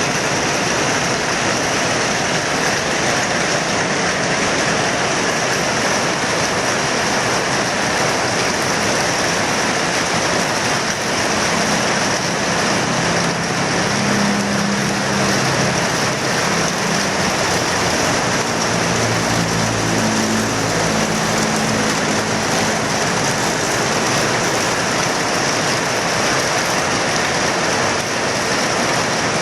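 Heavy tropical rain pouring down in a steady, loud hiss. Through the middle stretch a motor vehicle's engine hum comes and goes under the rain.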